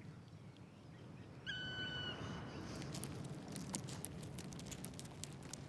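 Quiet forest ambience: a single clear whistled bird call about a second and a half in, lasting about half a second, then faint scattered ticks and crackles.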